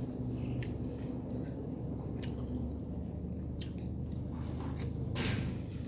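A person chewing food close to the microphone, with a few short wet clicks about every second and a half, over a steady low hum.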